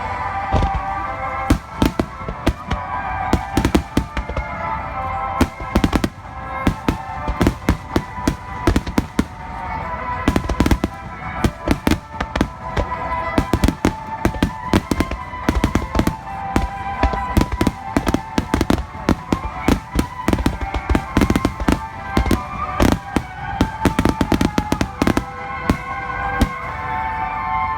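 Aerial fireworks bursting in rapid, dense succession: many sharp bangs and crackles throughout, with steady music underneath.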